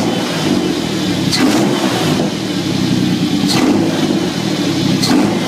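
Toyota 3.4-litre V6 (5VZ-FE) running steadily just after its first start, with three brief sharp high-pitched sounds about two seconds apart.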